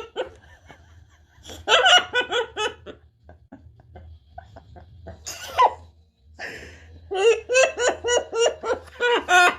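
Laughter in quick rhythmic 'ha-ha' pulses: a short bout about a second and a half in, then a longer bout from about seven seconds on.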